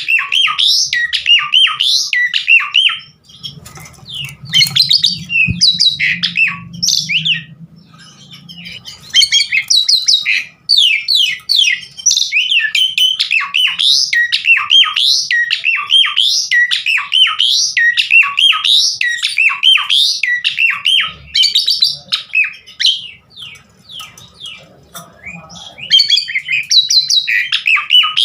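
Javan pied starling (jalak suren) singing a fast, unbroken run of varied whistles, chatters and squawks packed with mimicked phrases. The song thins out for a few seconds early on, and a low hum shows under it.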